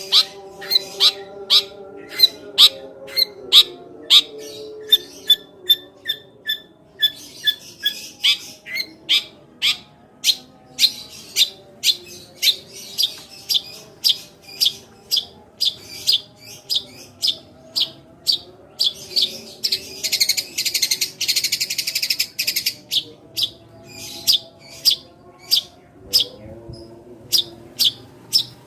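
Eurasian tree sparrow 'tembakan' call: sharp high chirps repeated about twice a second, with a burst of rapid chattering about two-thirds of the way through.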